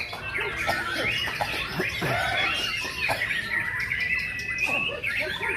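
White-rumped shama singing a varied song of quick whistles, chatters and notes that slide up and down, with one long held whistle in the middle.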